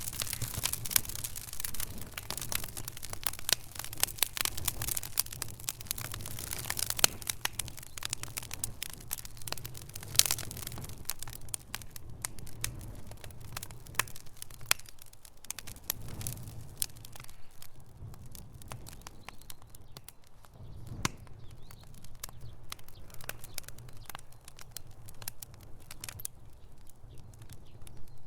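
Wood fire in a fireplace crackling, with many sharp pops and snaps over a low steady rumble. The crackling is dense through the first half and grows sparser from a little under halfway.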